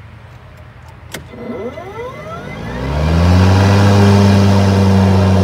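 A click, then the EGO 56-volt Select Cut battery lawnmower's electric motor and blades spin up with a rising whine. After about three seconds it settles into a steady, loud hum at full speed.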